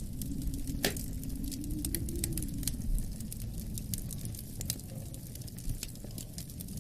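Wood fire crackling and popping in a fireplace: a steady scatter of sharp crackles, with one louder pop about a second in, over a low, slowly wavering rumble of wind.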